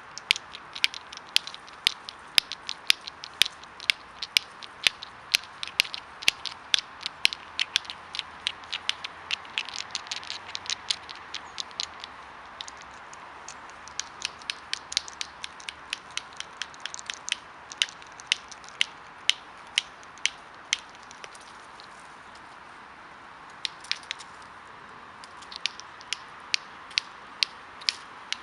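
Walnut shells clicking and cracking sharply, often several times a second in irregular runs, with a short pause about three-quarters of the way through.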